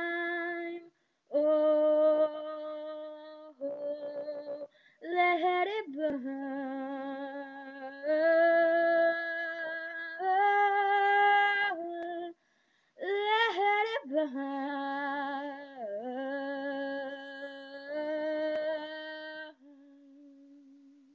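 A woman singing unaccompanied: long held notes with vibrato and slides between pitches, in several phrases with silent breaths between them. Near the end she sings one quieter, steady note.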